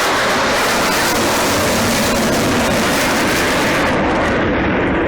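Avro Vulcan XH558's four Rolls-Royce Olympus turbojets running in a loud, steady roar during a low display pass; the hissing top end drops away about four seconds in as the bomber passes.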